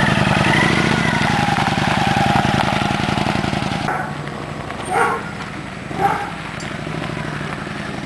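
Kawasaki Vulcan Classic XL motorcycle engine running and pulling away, fading noticeably after about four seconds. Two short, sharp louder sounds come over it about a second apart near the middle.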